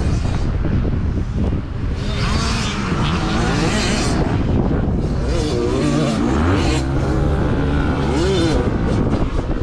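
Dirt bike engine running loudly, its pitch rising and falling several times in the second half as it is revved.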